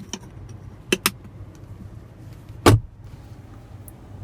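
Clicks and a thump from a pickup's center console storage lid being worked: a click at the start, two quick clicks about a second in, then a louder, deeper thump near three seconds as the lid shuts, over a steady low hum in the cab.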